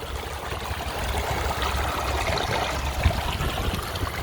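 Water flowing steadily in a stream, an even rushing hiss.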